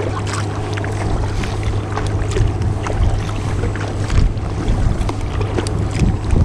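Water splashing and lapping around a kayak as it is paddled, with many small irregular splashes over a steady low hum.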